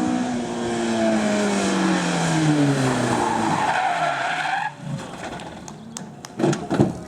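A race car on a tarmac hill climb, its engine note falling steadily in pitch as it slows through a corner. Its tyres squeal from about three seconds in, and both cut off suddenly at about the five-second mark. A few sharp cracks follow near the end.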